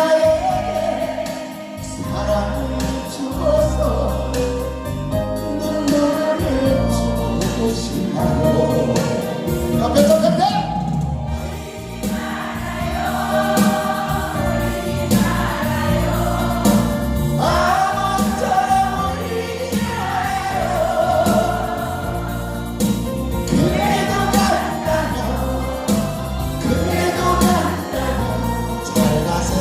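A group of voices singing a Korean trot song together in unison over a backing track with a steady beat.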